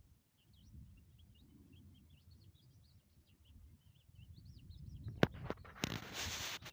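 Small birds chirping faintly in quick, short notes. Near the end come several sharp clicks and a loud rustling burst, louder than the birds.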